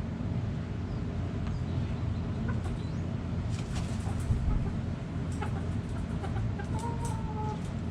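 Backyard hens clucking, with one short drawn-out call near the end, over a steady low rumble and scattered small clicks.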